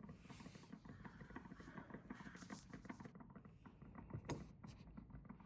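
Near silence: faint room tone with small scattered ticks and rustles, and one slightly louder click about four seconds in.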